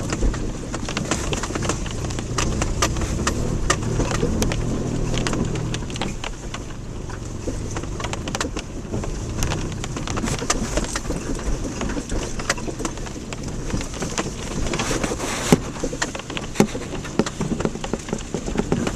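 Subaru Outback driving over a rough off-road dirt track, heard from inside the cabin. A steady rumble of engine and tyres runs throughout, with frequent clicks and knocks from the bumpy surface.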